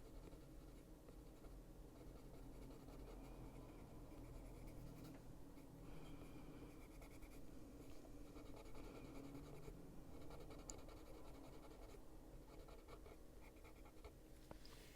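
Faint scratching of a black Luminance coloured pencil worked over paper, shading in steady strokes.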